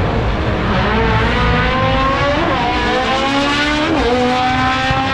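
A drag racer's engine at full throttle down the strip, its revs climbing and dropping sharply twice at the gear changes before climbing again.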